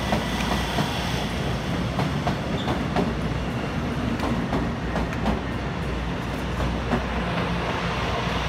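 Electric multiple-unit commuter train running along the station tracks: a steady low rumble with scattered clacks of the wheels over the rail joints.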